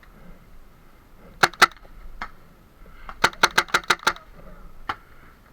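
TiPX paintball pistol marker firing: two quick shots, then about a second and a half later a rapid string of six shots, with a few fainter pops between.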